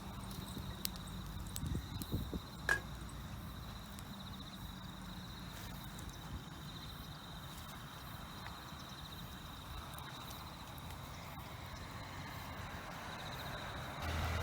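Insects trilling steadily in one high, pulsing note, with a few sharp clicks and one louder pop about three seconds in. A low vehicle rumble comes in near the end.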